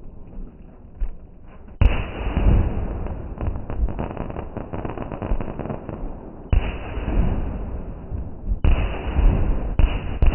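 Fireworks going off: four loud bangs, the first about two seconds in and the others toward the end. Each bang is followed by a stretch of crackling and rumbling, and a few fainter cracks come before the first bang.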